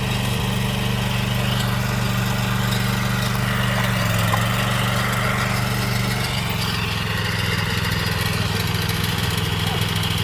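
Small engine of a Maxxi PF48 rice transplanter running steadily, its note shifting slightly about six seconds in.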